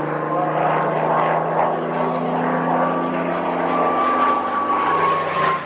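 A propeller aircraft's piston engine flying past, with a steady drone whose pitch sinks slowly near the end as it passes by.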